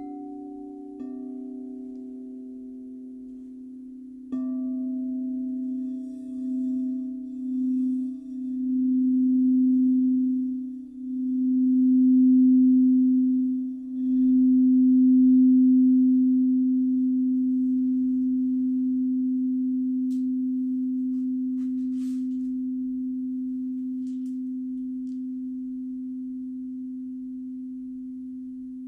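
Crystal singing bowl struck a few times, then played around the rim so its low steady tone swells and dips several times before ringing on and slowly fading.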